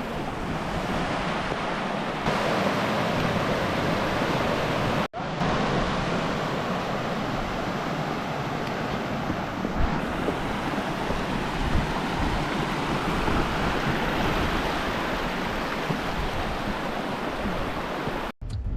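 Waterfall: a steady, loud rush of falling water, broken by two very brief dropouts, about five seconds in and near the end.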